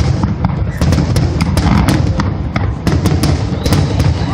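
Aerial fireworks shells bursting in a rapid barrage: many sharp cracks, several a second, over a steady deep booming.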